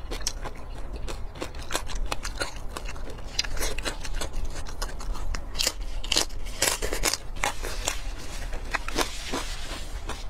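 Close-miked biting and chewing of crispy roast pork belly: a run of irregular sharp crunches and crackles, thickest about halfway through.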